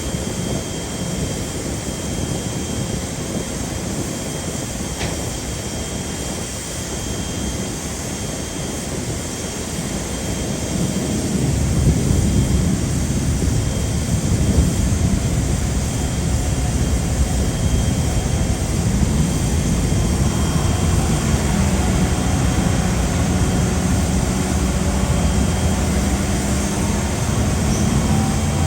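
Jet airliner engines running at an airport, a steady rumble that grows louder about eleven seconds in, with a low steady hum joining in about twenty seconds in.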